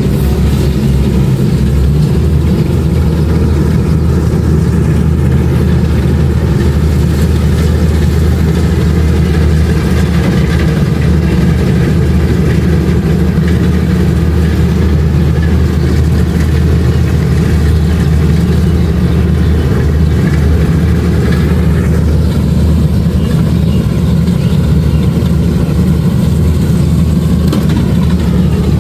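Kubota DC-70 Plus combine harvester's diesel engine and machinery running steadily at an even, loud level.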